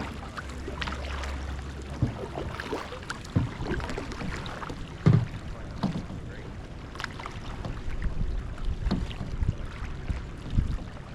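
Glass-bottom kayak being paddled: paddle strokes splashing in the water, with irregular sharper knocks, the loudest about five seconds in.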